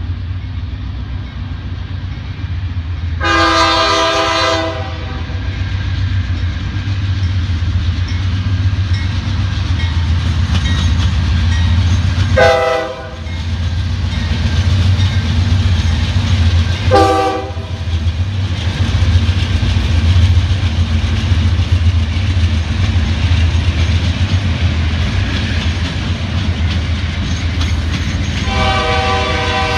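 Norfolk Southern freight train with several diesel-electric locomotives approaching and passing, its engines a steady low drone under the rumble of the train. The lead locomotive's air horn sounds one long blast about three seconds in, two short blasts a few seconds apart in the middle, and another long blast that starts near the end.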